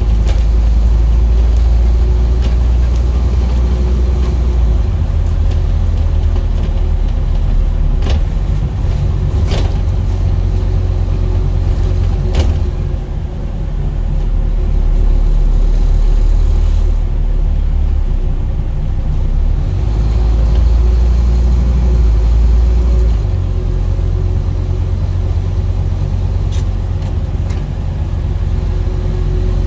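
Scania N230UD double-decker bus's five-cylinder diesel running, a loud low drone with a thin steady whine above it; the engine note shifts in level several times. A few sharp knocks or rattles stand out, three of them in the first half.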